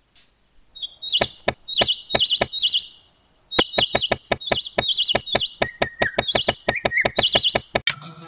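Small songbirds chirping in short repeated trills, over a run of sharp scraping taps from a small trowel worked over sand, about three or four a second in the second half.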